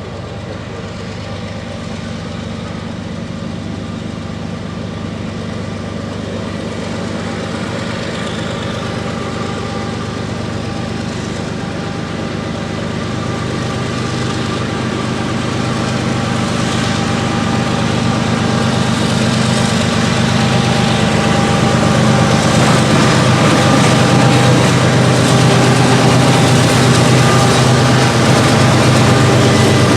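Diesel freight locomotives running with a steady engine drone that grows gradually louder as the train pulls out of the yard toward the listener.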